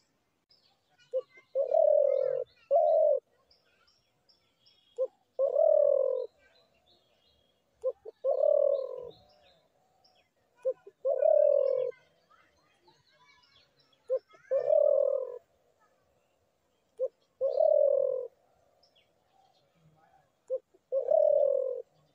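A dove cooing over and over: seven phrases about three seconds apart, each a short note followed by a longer, falling coo, with faint chirps of small birds in between.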